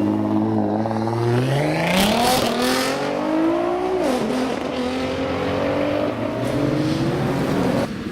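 Ferrari F12 V12 engine, Novitec Rosso N-Largo, running at a cold-start high idle, then revved so its pitch climbs over a couple of seconds, with crackles near the top, and drops back about four seconds in. It holds a steadier, higher note until the sound cuts off suddenly near the end.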